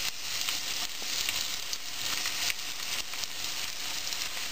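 Chopped red and green peppers frying in hot oil in a wide enamelled pan: a steady sizzle.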